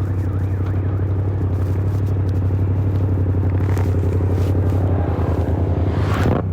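Yamaha MT-07's 689 cc parallel-twin engine running through an SC Project exhaust at a steady cruising throttle, a deep, evenly pulsing low note. Near the end the note falls away briefly.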